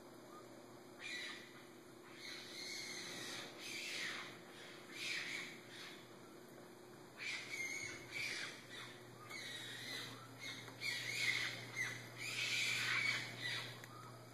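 An unidentified animal giving repeated high-pitched, scratchy calls in bouts of about a second each, starting about a second in.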